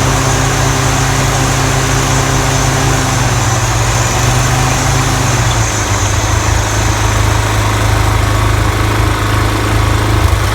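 30-inch Toro TimeMaster mower running steadily on a test run after its deck noise was repaired; the engine note drops slightly about five and a half seconds in.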